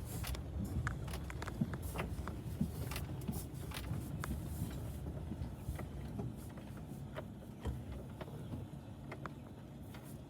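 A vehicle moving slowly: a steady low engine and road rumble, with many small scattered clicks and crackles over it.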